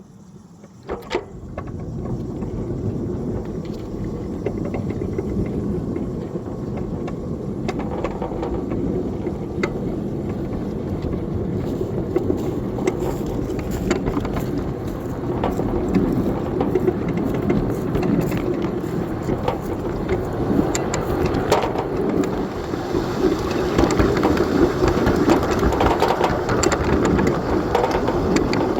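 A 7-1/4 inch gauge ride-on train running along the track: a steady rumble of steel wheels on rail, with scattered clicks and knocks, growing a little louder in the second half.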